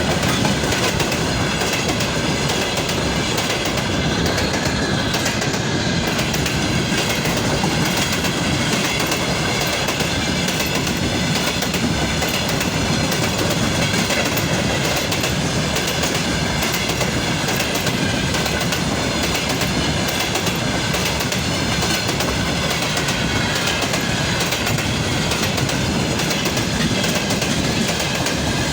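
A freight train rolling past at a steady loudness, its wagon wheels clacking over the rail joints, with a thin high squeal from the wheels.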